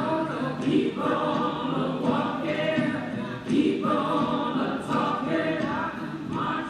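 A choir singing, in phrases with brief breaks between them.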